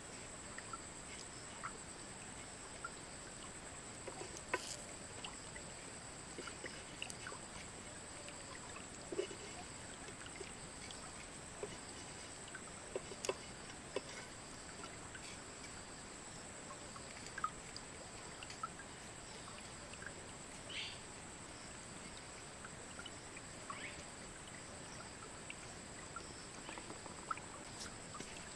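Crickets or other insects trilling steadily at a high pitch, with scattered small clicks and taps throughout.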